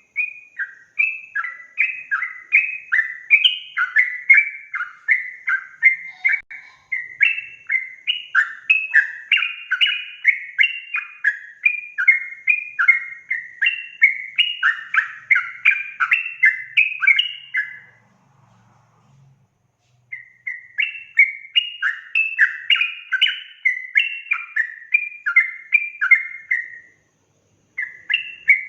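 Yellow-vented bulbul (trucukan) singing a long, fast run of bubbling, chattering notes, about three a second. The song breaks off for a couple of seconds about two-thirds of the way through, resumes, and pauses briefly again near the end.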